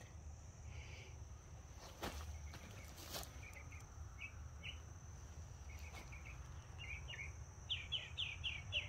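Faint garden ambience: a small bird chirps in short repeated notes that grow busier near the end into a quick run of falling chirps. Under it runs a steady high insect hum and a low rumble, with two light clicks a little after two and three seconds in.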